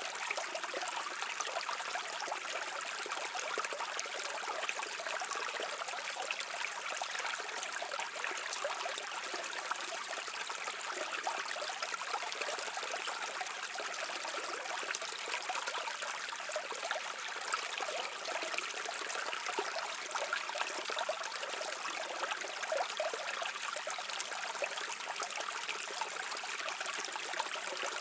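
A brook flowing, a steady babble and trickle of water with fine splashy detail and no deep rumble.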